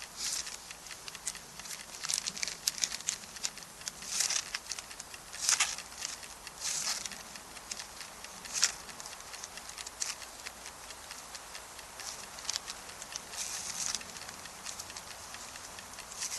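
Irregular short rustles and sharp clicks at a campsite: camp gear and food packaging being handled, with a wood fire crackling.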